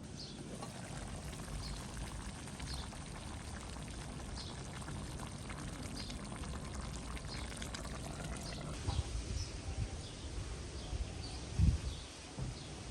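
A bird repeats a short high chirp about once a second over a steady hiss of outdoor cooking. Near the end come a few low thumps, one of them louder than the rest.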